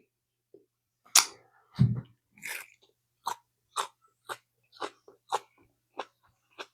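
A person chewing a raw Purple Gator Jigsaw chili pepper close to the microphone: a couple of sharper crunching bites early on, then wet mouth clicks about twice a second.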